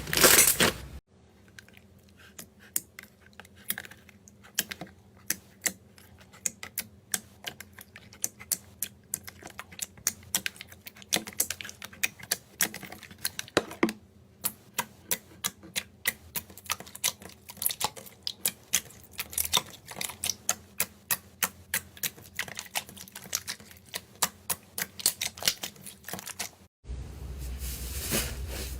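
Slime being pressed and worked by hand, giving an irregular run of sharp clicks and pops, two or three a second. A louder, denser sound from another clip fills the first second and the last two seconds.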